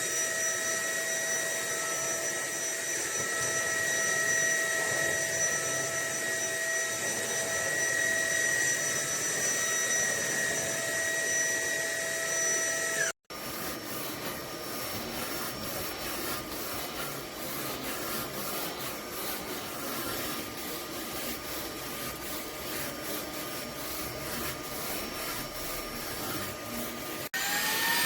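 Fieety cordless stick vacuum running with a steady high motor whine and airflow rush. It cuts out abruptly about halfway, resumes with a lower, fainter whine, and near the end its motor spins up again with rising pitch.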